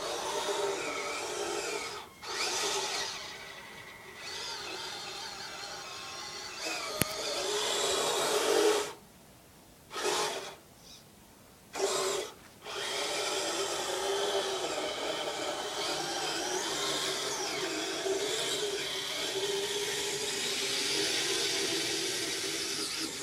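Kyosho Blizzard radio-controlled snow vehicle's electric motor whining, its pitch wavering up and down with the throttle. The sound drops out briefly a few times about nine to thirteen seconds in.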